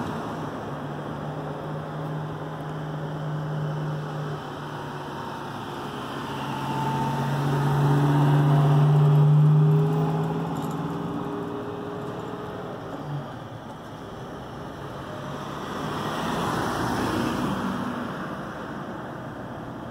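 Motor vehicles going by: a low engine hum swells to its loudest about nine seconds in and fades out soon after, and another vehicle passes near the end.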